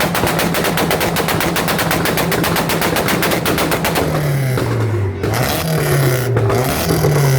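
Car engine held on a 2-step launch-control rev limiter, the exhaust firing a rapid string of pops and backfires, about ten a second. The pops break off briefly twice in the second half while the engine's pitch dips and climbs again.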